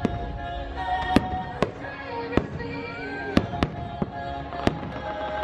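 Aerial fireworks shells bursting in about a dozen sharp bangs at irregular spacing, over the show's music soundtrack.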